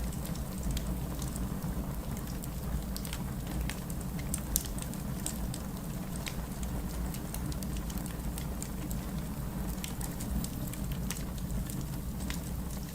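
Steady rain together with a crackling wood fire: an even, dense rush of rain with a low rumble beneath, scattered with frequent small sharp crackles and pops.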